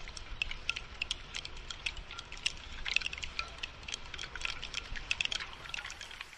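Rain dripping and pattering in dense, irregular sharp drops, with a low rumble underneath that starts and stops abruptly with this stretch.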